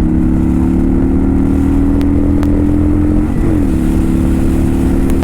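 Kawasaki Vulcan 900's V-twin engine pulling under acceleration while riding, its pitch climbing slowly. About three and a half seconds in it shifts up and the pitch drops, then holds steady. The newly fitted clutch is gripping, so the revs rise with road speed and no longer flare as they did when it slipped.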